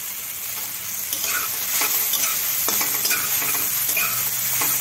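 Diced potatoes and tomatoes with ground spices frying and sizzling in mustard oil in a pan, while a slotted metal spatula scrapes and stirs them in a series of strokes from about a second in.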